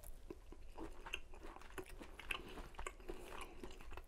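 A person chewing a bite of sous-vide cooked tri-tip steak: faint, irregular mouth clicks and smacks.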